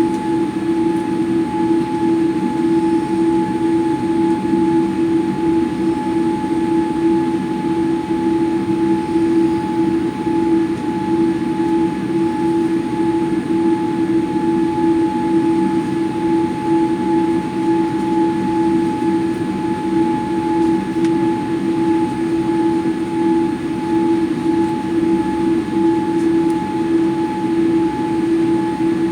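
Steady airliner cabin noise: the jet engines and the cabin air system running with a constant hum and a steady whine, not rising or changing.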